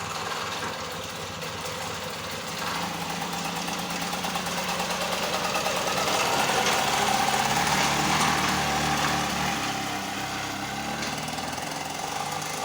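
Engine of a home-built off-road buggy running through its new hand-made exhaust silencer, growing louder towards the middle and easing off towards the end as the buggy is driven.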